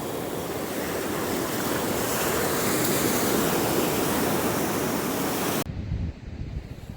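Ocean surf washing on the beach, a steady rush that swells over the first few seconds. About five and a half seconds in it cuts off abruptly, giving way to quieter, gusty wind rumble on the microphone.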